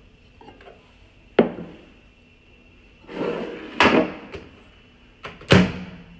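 Microwave door and dish being handled as popped popcorn is taken out: a knock a little over a second in, a rattling clatter around three to four seconds, and two sharp clunks near the end.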